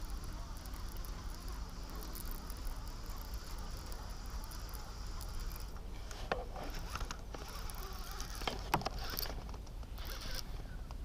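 Fishing reel being cranked in a steady mechanical whir, with a few sharp clicks or knocks past the middle.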